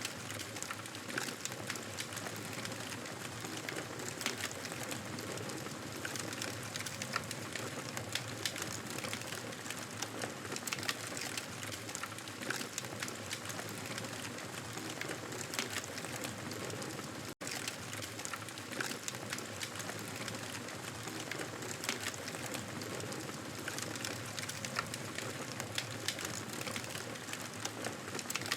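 Wood fire crackling steadily, with many small pops and snaps over a constant hiss; the sound cuts out for an instant about seventeen seconds in.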